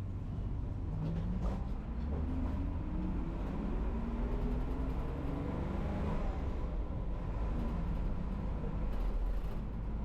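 A city bus engine running under a steady low rumble of road noise, its pitch rising several times as the bus picks up speed.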